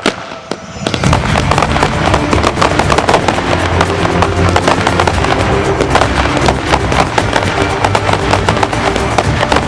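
A dense barrage of fireworks: rapid bangs and crackle, many per second, starting about a second in after a brief lull. Music plays underneath.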